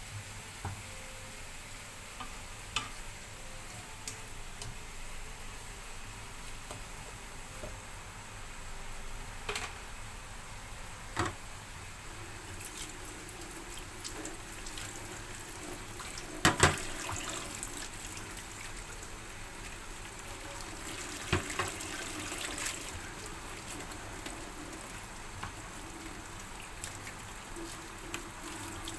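Kitchen cooking sounds: a steady hiss with scattered clicks of utensils, one sharp knock about halfway through, and busier handling noise in the second half.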